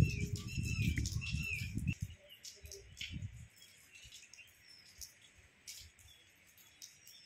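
Small birds chirping in short calls, busiest in the first second or two. For the first two to three seconds a low rumble sits beneath them, then dies away, leaving the chirps faint over a soft hiss.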